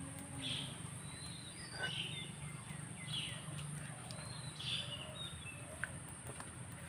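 Birds chirping: four short calls, some sweeping downward, about every second and a half, with a few fainter short whistles between them, over a low steady hum.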